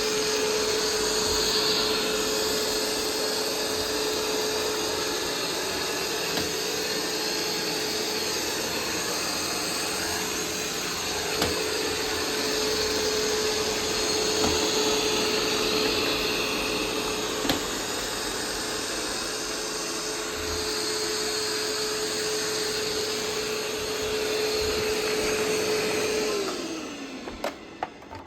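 iRobot Roomba 505 robot vacuum running steadily, its motors and brushes making a constant whir with a steady tone, with a few light knocks as it bumps along. Near the end the motors wind down with a falling pitch and the noise dies away as the robot stops.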